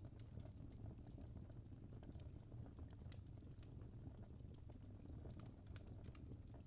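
Faint fireplace crackle: sparse, irregular small pops and snaps over a steady low rumble.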